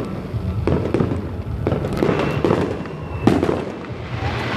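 Fireworks display: aerial shells bursting one after another at irregular intervals, with sharp bangs over a continuous rumble, the loudest about three seconds in.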